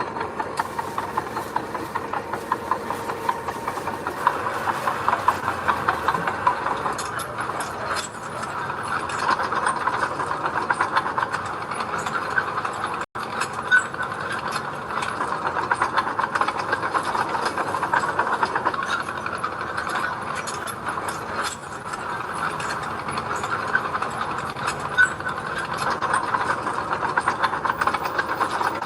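Small crawler bulldozer's diesel engine running steadily, with a continuous fine metallic clatter from its tracks. The sound cuts out for an instant about 13 seconds in.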